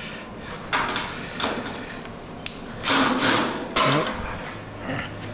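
Metal scrap being handled: a run of short scraping and rasping strokes with a few sharp knocks, loudest about three seconds in.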